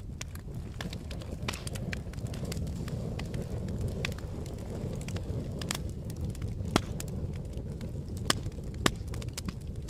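Campfire burning with a steady low rumble and irregular wood crackles, with a few sharper pops near the end.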